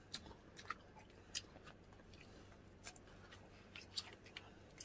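A person chewing food: quiet, irregular mouth clicks and smacks.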